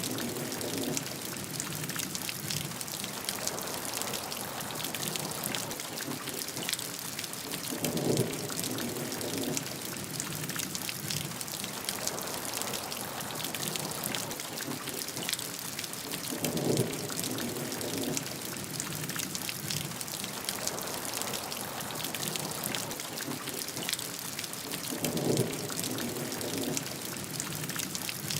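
Steady heavy rain hissing, with dense patter of drops. Three times, about every eight and a half seconds, a short deeper burst of sound lasting about a second rises over the rain.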